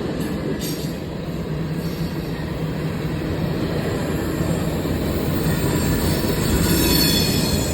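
Freight train cars rolling past close by, with a continuous rumble of steel wheels on rail. A thin high wheel squeal comes in near the end.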